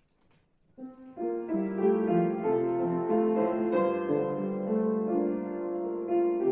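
Piano-led instrumental introduction of a song, starting about a second in with sustained chords and a melody.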